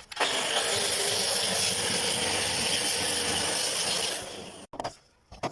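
A steady mechanical rushing noise, like a power tool or spraying equipment running, lasting about four seconds before it fades out and stops.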